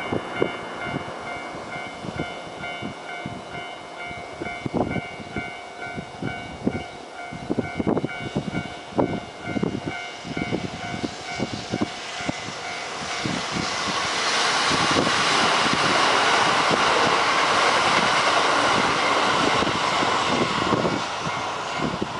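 Kintetsu limited express train, a 22000 series and a 12400 series set coupled into six cars, passing at speed. Its wheels and running gear build to a loud rushing rumble about halfway through that lasts roughly eight seconds, then fades near the end. Before the train arrives, a repeating multi-tone ringing and irregular low thumps are heard.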